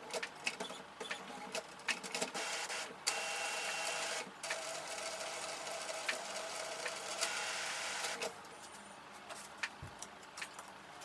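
Epson WorkForce WF-3620 inkjet printer powering up and running its start-up cycle: a run of clicks, then a steady whirring of the mechanism for about five seconds, then a few quieter clicks near the end.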